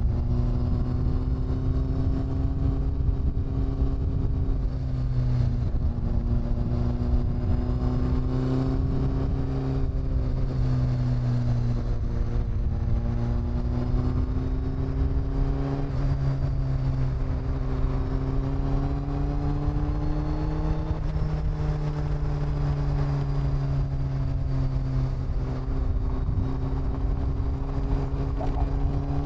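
Honda CB400 Super Four's inline-four engine and exhaust running at steady cruising revs, the pitch easing up and down gently with the throttle, over a low road rumble.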